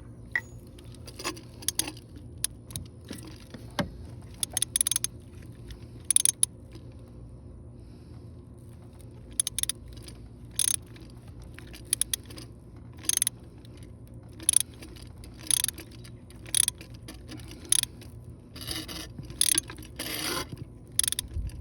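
A ratchet clicking in short back-and-forth strokes as it tightens the new exhaust back pressure sensor on a 7.3L Powerstroke diesel, with a steady low hum underneath.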